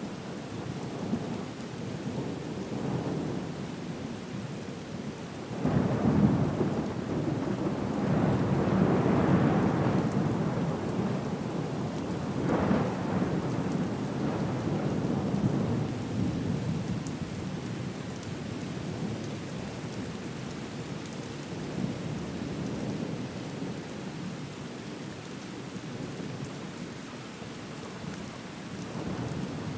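Storm soundscape: steady rain hiss under deep rolling rumbles that swell about six seconds in, again around twelve seconds, and once more near the end.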